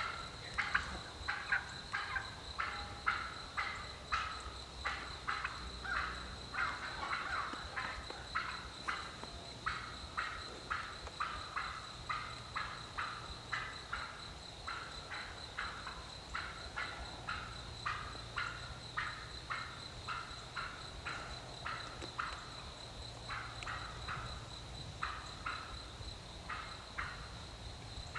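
Wild turkeys calling: a long, unbroken run of short notes, about two or three a second.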